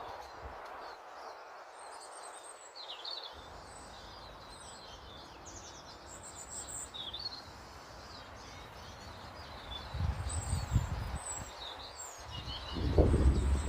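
Small garden birds chirping and calling over a steady outdoor hiss. Twice in the second half a low rumble swells up, the louder one near the end.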